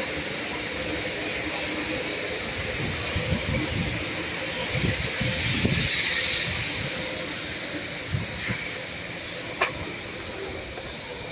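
Steady hiss of car wash spraying, with a louder burst of spray hiss about halfway through and a few dull knocks.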